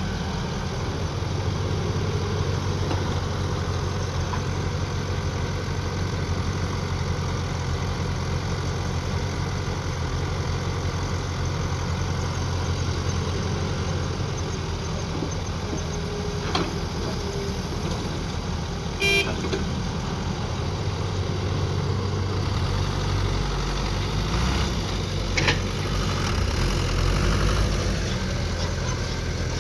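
Mini excavator's engine running steadily as it digs, its note shifting under hydraulic load in the second half. A few sharp knocks stand out, at about 16 and 19 seconds and again about 25 seconds in.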